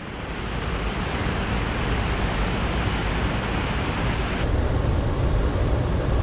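A steady, loud rushing noise with no tones in it. About four and a half seconds in it turns duller and deeper.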